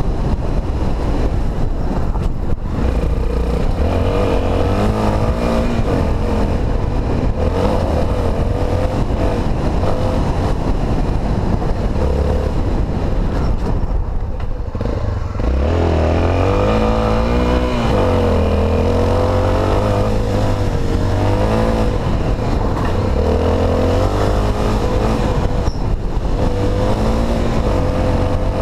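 Honda XR250 Tornado's air-cooled single-cylinder four-stroke engine running under load, its revs rising and falling with the throttle. The engine note dips briefly about halfway through, then picks up again.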